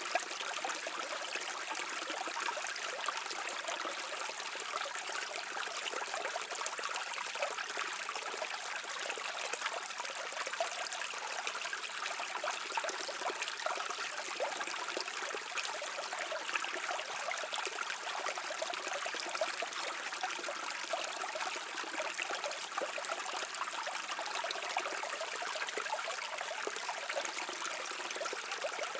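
Shallow stream flowing steadily, water trickling and gurgling over stones.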